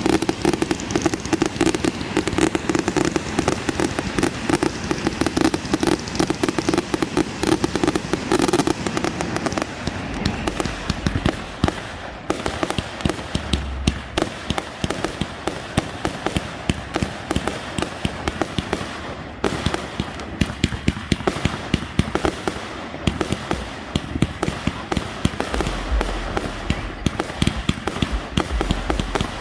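Aerial fireworks going off in a dense barrage of rapid crackling pops and bangs, with a steady low drone beneath the first nine seconds or so.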